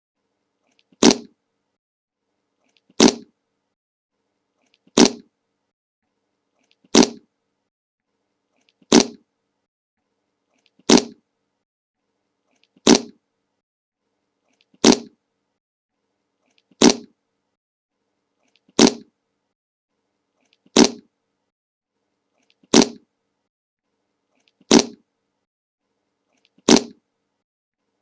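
A short fart sound effect, repeated every two seconds, fourteen times in all, each one identical. Each starts sharply and dies away fast, with silence between.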